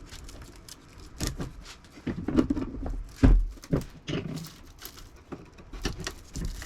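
Irregular metal knocks and scraping as a big screwdriver is forced into an air-conditioner motor's stator to drive the copper windings out. The loudest knock comes a little past the middle.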